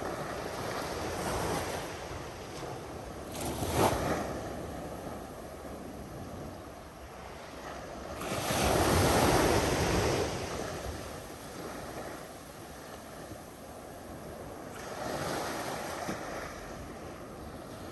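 Ocean surf: waves washing in, rising and falling in several swells, the largest about halfway through, with some wind on the microphone.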